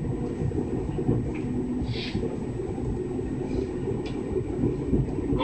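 Kintetsu 6020 series electric commuter train running, a steady low rumble heard from inside the car behind the driver's cab, with one short hiss about two seconds in.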